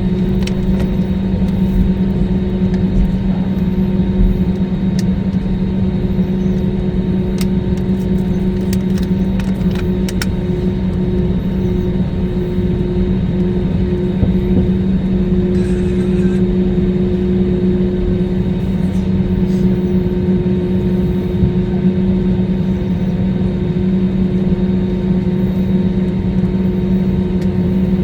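Steady cabin hum of an Airbus A320neo taxiing, its engines at idle, with a few light clicks near the middle.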